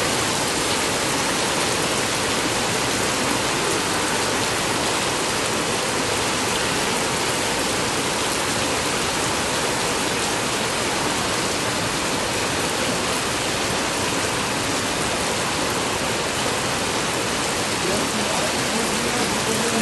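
Torrential rain pouring steadily onto pavement and standing water, a dense, even hiss.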